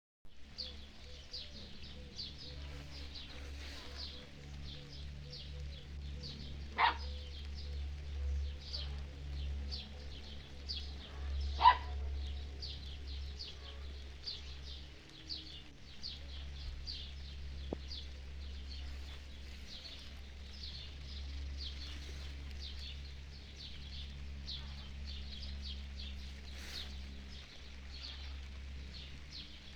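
Small birds chirping rapidly and continuously over a steady low rumble. Two louder short calls stand out, about seven and twelve seconds in.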